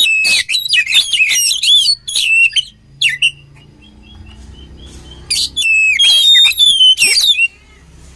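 Oriental magpie-robin (kacer) singing: two bursts of rapid, varied whistled phrases with quick pitch slides, separated by a pause of about two seconds.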